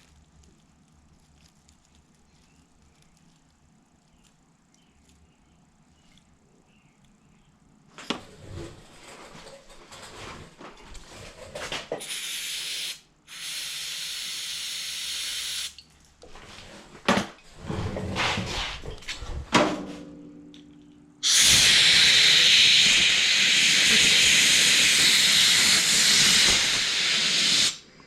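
Pressurised spray hissing into a Toro push mower's carburetor as it is cleaned. After a quiet stretch come handling clatter, two shorter blasts and then one long, even blast of about six seconds.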